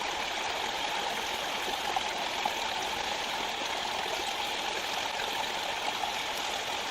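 Steady rushing of running water, like a stream flowing, with a few faint ticks.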